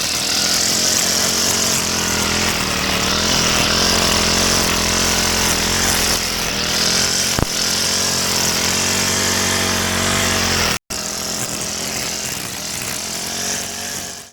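Small engine of a grass-cutting machine running steadily while cutting grass, with a high hiss over its drone. It breaks off for an instant about eleven seconds in, then carries on and fades away at the very end.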